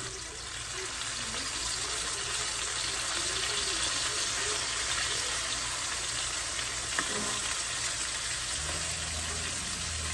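Meat frying in a hot pan with a steady sizzle, and a small click about seven seconds in.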